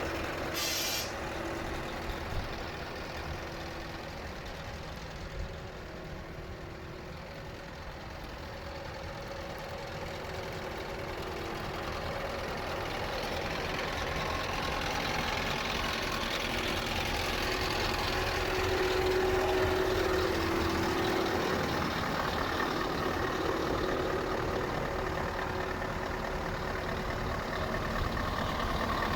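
Scania R560 truck's V8 diesel engine running steadily, growing louder through the middle stretch, with a brief click near the start.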